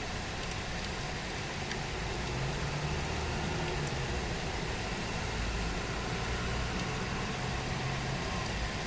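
Steady rain falling as an even hiss, with a few faint drip ticks. Under it runs a low engine-like hum, stronger from about two and a half seconds in.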